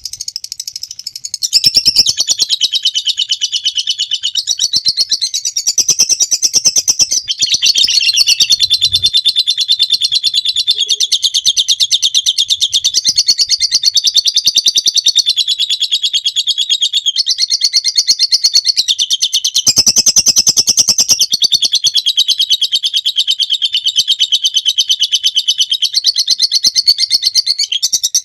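Lovebird giving a long, rapid, high-pitched chattering trill, the 'ngekek' song, nearly unbroken from about a second and a half in.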